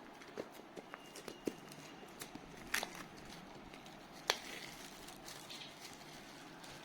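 Hands handling the earbuds' packaging: scattered small clicks and taps over a faint hiss, with two sharper clicks about three and four seconds in.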